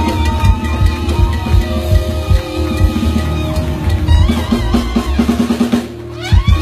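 Drum kit played with band music: a steady run of bass-drum and snare hits, a fast fill about four seconds in, and two heavy strikes near the end.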